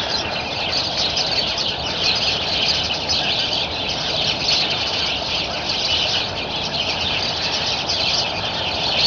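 A flock of small birds chirping and chattering all at once, a dense, unbroken chorus of quick high calls.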